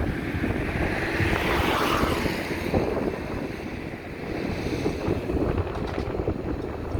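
Wind buffeting the microphone, a gusty low rumble, with a hiss that swells and fades about two seconds in.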